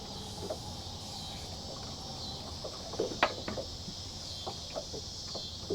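A steady high chorus of insects such as crickets, with a few small scattered clicks or knocks, the sharpest about three seconds in.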